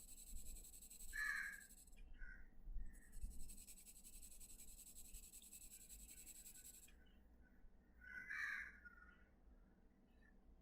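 Crows cawing faintly in the background: a few short calls, the clearest about a second in and another near the end.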